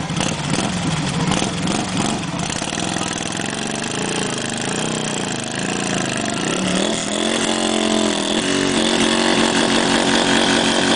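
Motorcycle engine revving, its pitch swinging up and down about once a second, then settling into a steadier note that climbs slowly toward the end.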